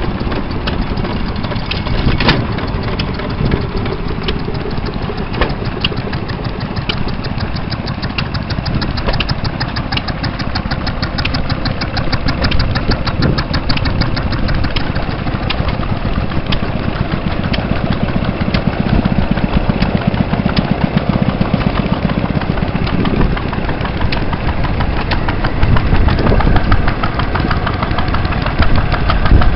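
Vintage stationary engines running, a steady mechanical clatter with a fast, even ticking beat and a few louder single knocks.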